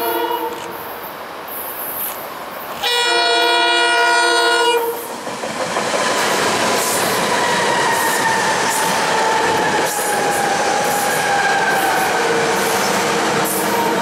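SEPTA electric multiple-unit commuter train sounding its horn, a blast ending just under a second in and a longer one about three seconds in, then passing close with a steady rush of wheels on rail and a faint whine that slowly falls in pitch.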